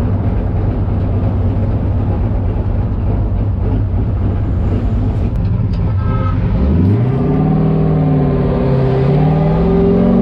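Car engine running steadily at low revs, then revving up about two-thirds of the way in, its pitch climbing quickly and then wavering up and down.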